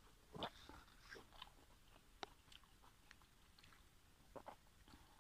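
Faint chewing of a pork momo dumpling: a few soft mouth clicks and smacks, the loudest about half a second in.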